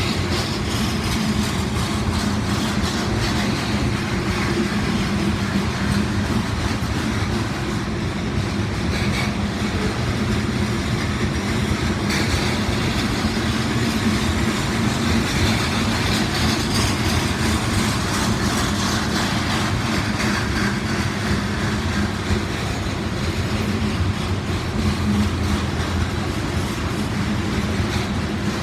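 Freight cars of a loaded trash train rolling past on the rails: a steady rumble with wheels clicking over rail joints.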